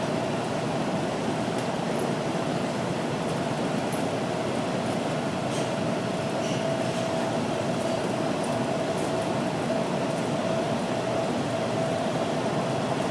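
AnsaldoBreda A650 subway car running at steady speed through the tunnel: an even rumble of wheels on rail with a steady hum held over it.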